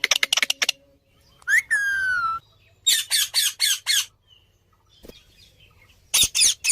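Parrot calling: a quick run of short chirps, then a whistle that rises and slides down, then a string of five harsh squawks, and two more squawks near the end.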